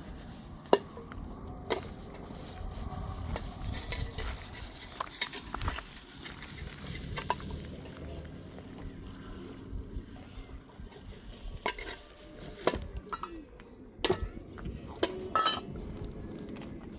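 A metal utensil stirring and scraping in a pan, with irregular sharp clinks and knocks against it over a steady low sizzle.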